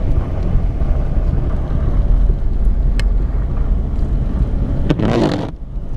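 Low, steady rumble of a car driving, heard from inside the cabin, with a brief louder rustling noise about five seconds in.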